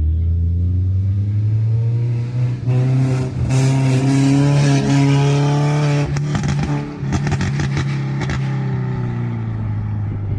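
Drift car's engine held at high revs, its pitch slowly climbing, with a loud rough spell in the middle. A rapid run of sharp crackles comes about six to eight seconds in.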